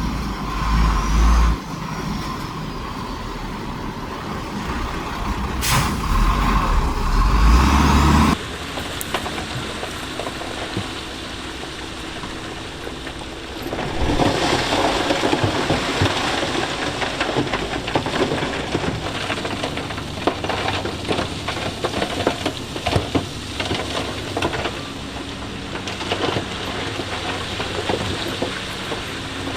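Heavy diesel machinery running on a stone-moving site, with a short air-brake hiss about six seconds in. After an abrupt change, a dense crackle of stones clattering and grinding sets in and keeps going.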